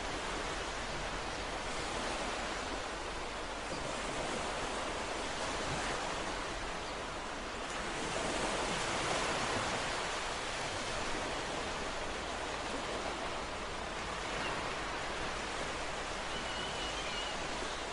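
Ocean surf: a steady wash of waves with slow swells in loudness, one larger wave building up about halfway through. A faint brief high tone, perhaps a bird, sounds near the end.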